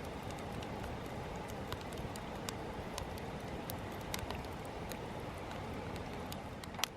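Wood campfire burning: a steady hiss of flame with frequent sharp crackles and pops, one louder pop near the end.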